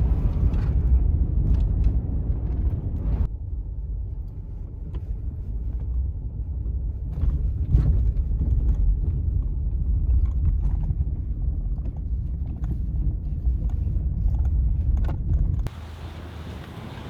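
Pickup truck driving: a steady low rumble of engine and road noise. Near the end it cuts abruptly to quieter wind noise.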